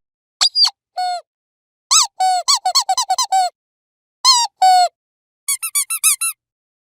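Dog squeaky toy being squeezed in quick runs of short, high-pitched squeaks: a couple near the start, a fast run of about eight around two to three and a half seconds in, two longer ones near four and a half seconds, and a rapid string of about seven near the end, with dead silence between the runs.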